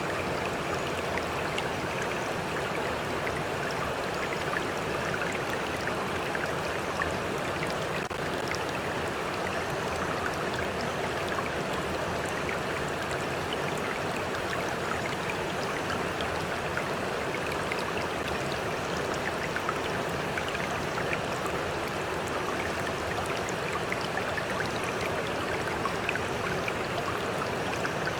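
Stream water flowing steadily, with small splashes and trickles scattered through it.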